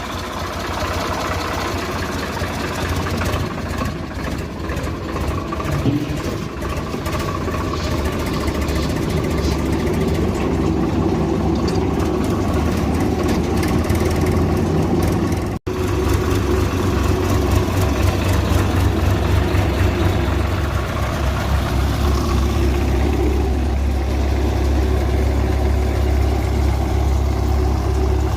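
Swaraj 735 tractor's diesel engine running steadily, driving a threshing machine with a constant mechanical hum. The sound drops out for an instant about halfway through, then carries on.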